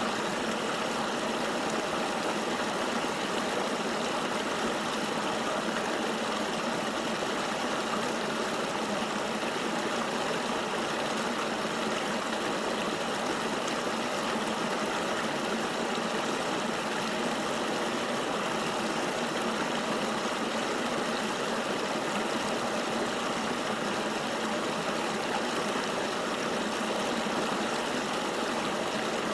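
Steady rush of flowing river water, an even, unbroken wash of noise with little deep rumble.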